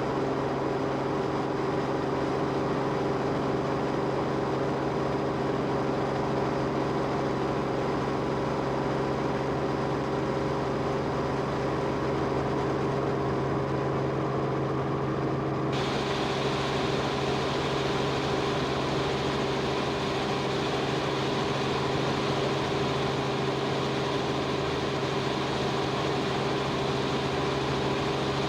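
Steady engine drone of an aircraft, heard from on board, with several constant hum tones. About halfway through, a higher hiss suddenly joins in and stays.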